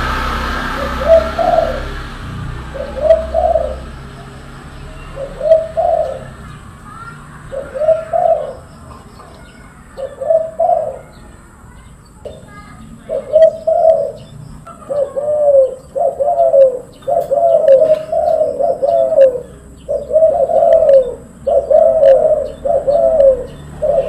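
Silver derkuku dove cooing again and again. The calls come about every two seconds at first, then faster and closer together through the second half.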